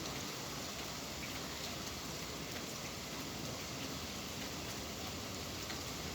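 Steady rain, an even hiss of falling rain with faint scattered drop ticks.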